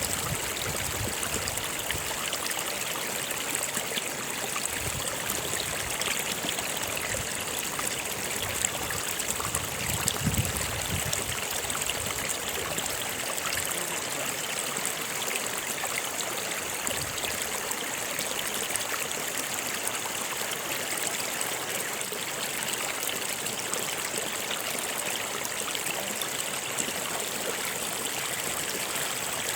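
A stream flowing steadily over stones with a trickling, gurgling sound, and a few deeper swells of water about ten seconds in.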